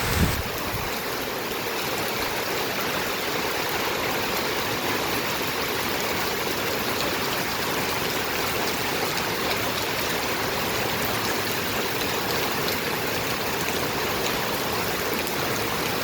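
Steady heavy rain, an even rushing hiss with faint scattered drop ticks. A low rumble dies away at the very start.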